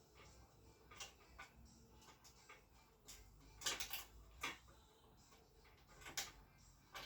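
Scattered light metallic clicks and clinks of small parts and tools being handled while fitting fixings to a motorcycle. The loudest come as a cluster of clinks about three and a half to four and a half seconds in, with another sharp click about six seconds in.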